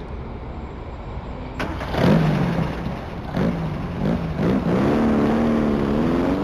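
Car engine revving a few times, then accelerating with its pitch rising steadily.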